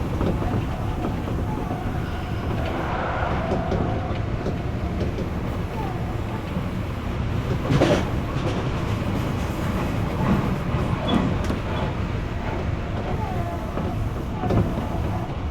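Odakyu Enoshima Line electric train running on the rails: a steady rumble with wheel clatter and scattered knocks, the loudest about eight seconds in.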